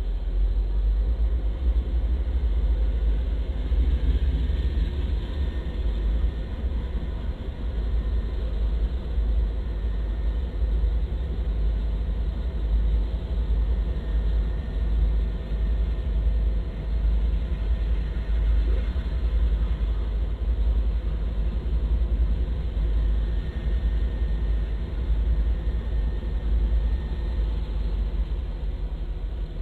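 Steady low rumble of diesel freight locomotives, led by an NS C40-9W, moving slowly past as the train pulls in.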